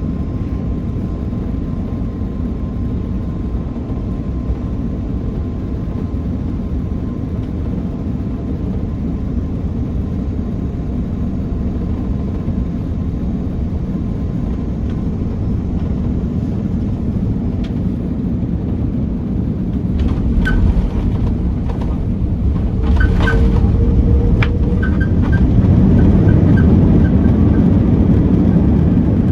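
Cabin rumble of an Airbus A330-300 on its landing at Hong Kong: a steady low roar of airflow and engines, with a few sharp knocks and rattles about two-thirds of the way through, after which the rumble grows louder.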